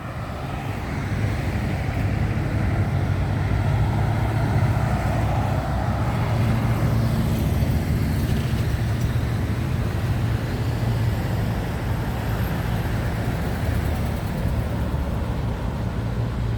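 Road traffic on a busy highway: vehicles passing with a continuous low engine and tyre rumble, fading up over the first second.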